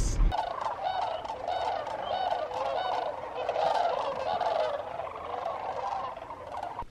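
A large flock of waterbirds calling, a dense chorus of many overlapping calls at once, steady throughout and cutting off suddenly near the end.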